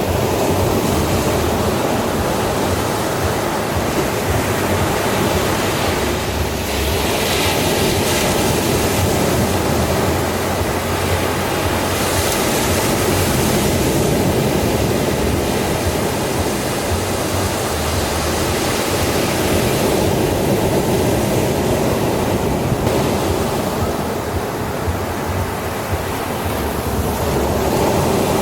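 Ocean surf: a steady rush of waves washing in, swelling and easing gently over several seconds.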